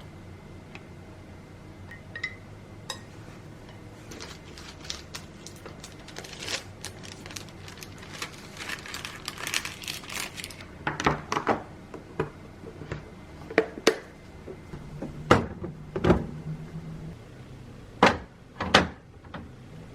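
Kitchen handling sounds: containers and utensils knocked and set down, with scattered clicks and several sharp thunks, over a low steady hum.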